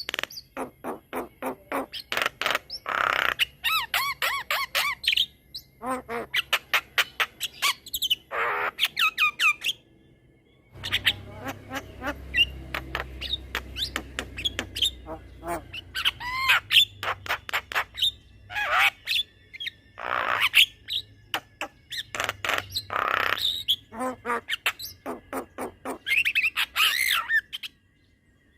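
Javan myna singing in long chattering runs: rapid rattling clicks mixed with harsh squawks and whistled notes, broken by a short pause about ten seconds in. A low rumble sits under the song for a few seconds after the pause.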